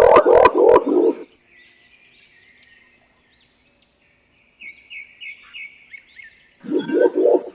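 Green imperial pigeon calls: deep, rapidly pulsed cooing, loud, which stops about a second in and starts again near the end. In the gap, faint high chirping of small birds.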